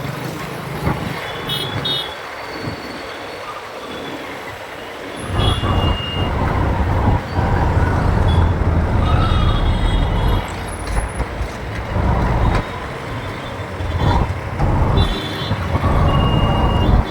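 City road traffic heard from a moving motorcycle. The low rumble of engines and road noise gets louder about five seconds in, and a few short high horn toots sound, one about five seconds in and more near the end.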